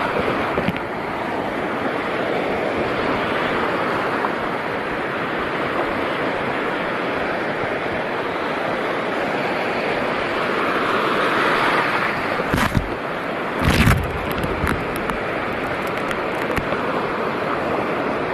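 Steady rush of sea water with wind buffeting the microphone, and a few short knocks or splashes about twelve to fourteen seconds in.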